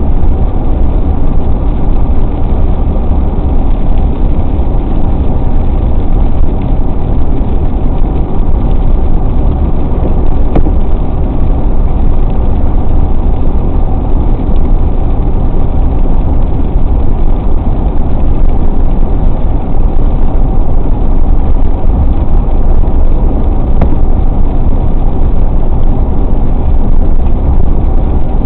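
Car driving along the road, heard inside the cabin: a steady, loud low rumble of engine and road noise with no change.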